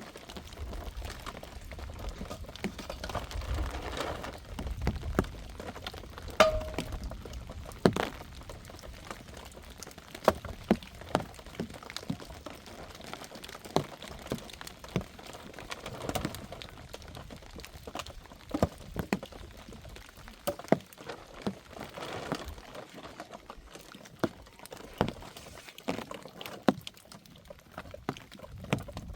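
Rainwater dripping and spattering in irregular drops, with scattered sharp taps and knocks, over a steady hiss; a low rumble runs through the first several seconds.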